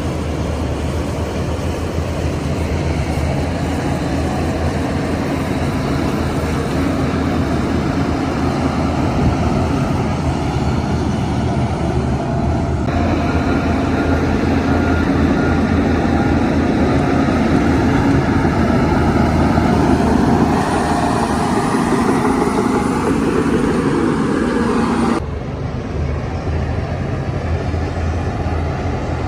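Diesel engines of heavy earthmoving machinery, a crawler bulldozer working with dump trucks, running steadily under load. The sound changes abruptly about 13 seconds in and again near 25 seconds.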